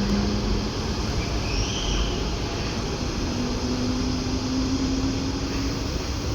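A train running through the station: a steady rumble with a low hum that rises slightly in pitch from about a third of the way in.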